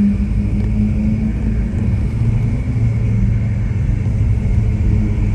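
Ferrari 488 Pista's twin-turbo V8 with a Ryft exhaust, running at steady low revs as the car cruises with a deep, even drone. Its note drops lower about a second and a half in.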